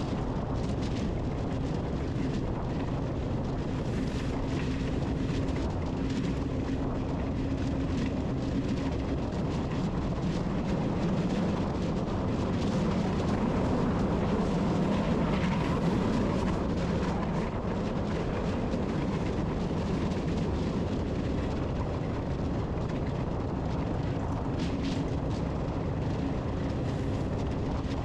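A steady low mechanical rumble with a hum that drops slightly in pitch and swells about halfway through.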